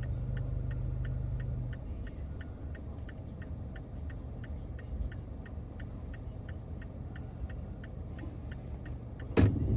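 A car's turn-signal indicator ticking evenly, about two and a half ticks a second, over the low rumble of the car heard from inside the cabin. A sharp knock comes near the end.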